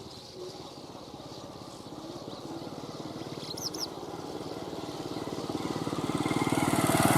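A small engine running with a fast, even beat, growing steadily louder as it approaches. A bird gives a brief burst of high chirps about three and a half seconds in.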